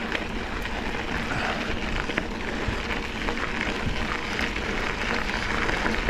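Mountain bike rolling along a dirt double-track trail: steady tyre and ride noise, with many small clicks and knocks from the trail surface and the bike.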